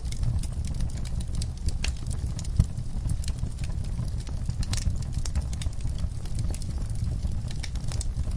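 Wood fire burning in a fireplace, crackling with frequent small pops over a steady low rumble of flames, with one sharper pop about two and a half seconds in.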